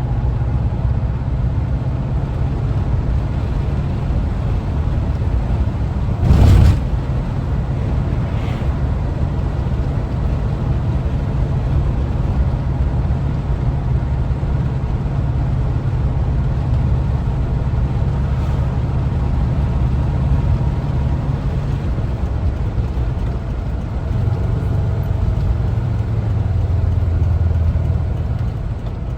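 Air-cooled flat-four engine of a 1974 Volkswagen Westfalia camper van running under way, with steady road noise. There is one loud thump about six seconds in and fainter knocks later. The engine note swells near the end, then drops off.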